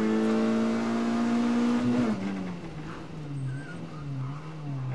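Rally car engine heard from inside the cabin, pulling hard with its pitch climbing slowly. About two seconds in the driver lifts off, and the revs drop sharply to a lower, uneven note as the car slows.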